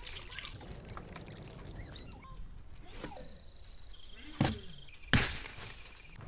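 Rust-remover liquid pouring and trickling into a metal oil pan. Near the end come two sharp knocks, a little under a second apart.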